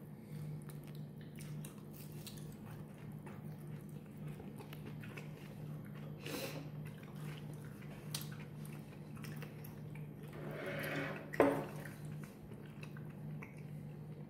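A man chewing and biting a soup-soaked pepperoni pizza slice, with small wet mouth clicks, over a steady low hum. A louder, short rushing noise comes about eleven seconds in.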